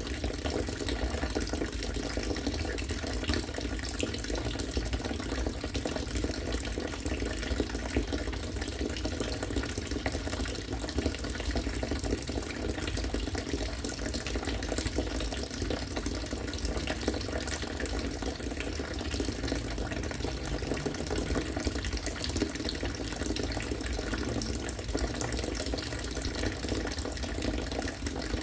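Rainwater from a rainwater-harvesting setup falling and pouring steadily into collected water, an even, unbroken splashing run of water.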